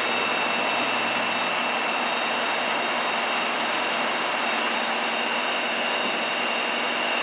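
Steady rushing vehicle noise with a faint, steady high whine through it.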